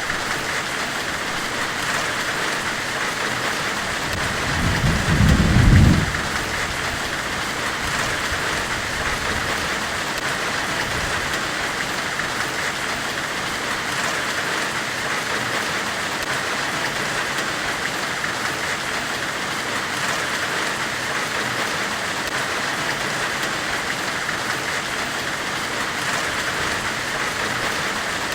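Steady white-noise hiss of a forge-weld ambience, strongest in the upper middle range. A low rumble swells about four seconds in and stops suddenly about two seconds later.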